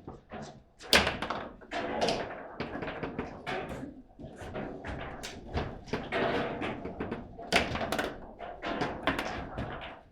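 Foosball table in play: the hard ball cracking against the plastic figures and walls, with rods clacking and thudding at irregular intervals, a few louder hits about a second in and near eight seconds.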